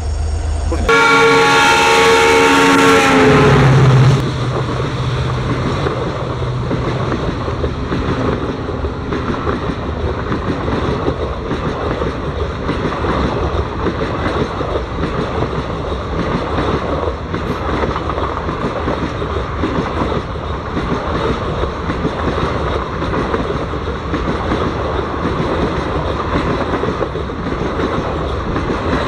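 A train horn blows for about three seconds, then the train runs on with a steady rumble and a regular clatter of wheels over the rail joints.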